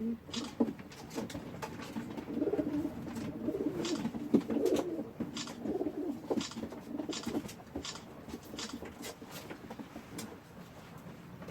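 Pigeons cooing in repeated wavering bouts that fade out after about seven seconds, with scattered sharp clicks and taps throughout.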